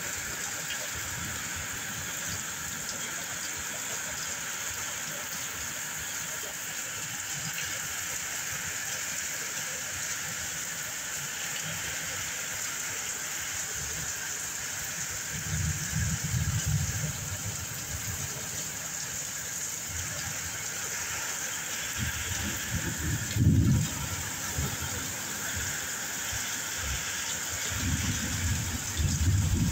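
Heavy rain pouring steadily onto a screened pool enclosure in a storm. Low gusts of wind buffet the microphone several times in the second half, the strongest about three-quarters of the way through.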